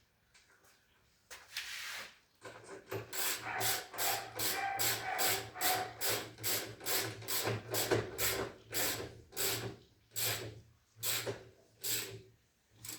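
Hand tool scraping or filing in rhythmic back-and-forth strokes, about two a second, over a steady low hum.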